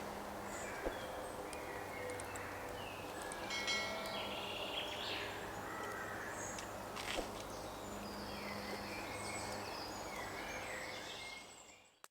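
Woodland ambience: several small birds chirping and singing over a steady background hiss, with a few faint clicks. It fades out near the end.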